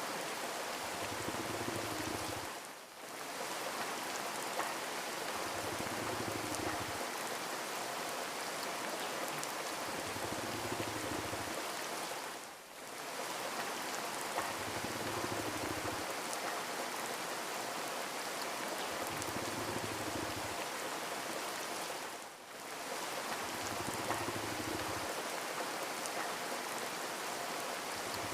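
Steady rain falling, an even hiss that dips briefly three times, about every ten seconds, with a soft low hum that swells and fades every few seconds beneath it.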